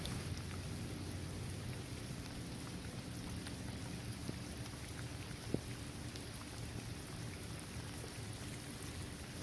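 Steady rain falling on a basketball court, trees and grass, with scattered drops ticking and one sharper drop hit about five and a half seconds in.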